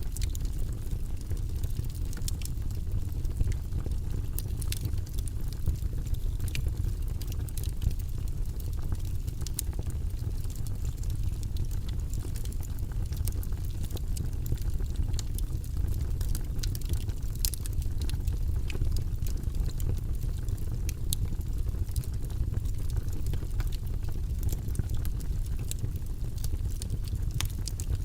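Wood logs burning in a fireplace: a steady low rumble of flame with frequent small, sharp crackles and pops.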